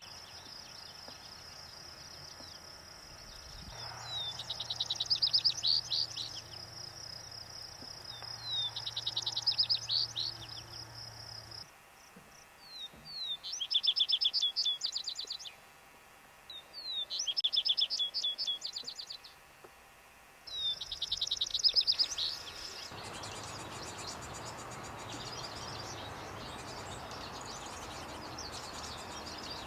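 A songbird singing the same short song five times, each phrase a few slurred notes running into a fast, buzzy series of notes. A steady high whine sits under the first two songs. After the fifth song only faint background chirping is left.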